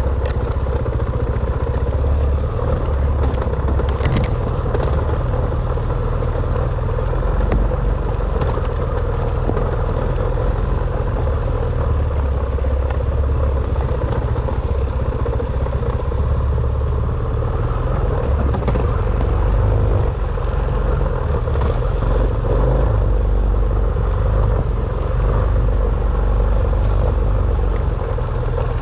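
Dirt bike engine running steadily under way on an off-road trail, with a dense low rumble and a single sharp click about four seconds in.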